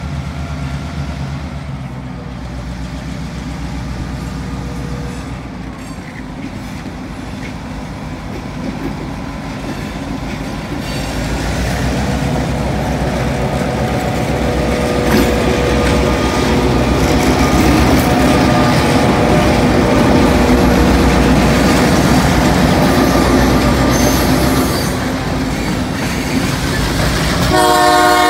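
Diesel freight locomotives running as they approach and pass, then steel wheels rumbling and clattering with some squeal as tank cars roll over the crossing. A multi-chime train horn starts sounding near the end.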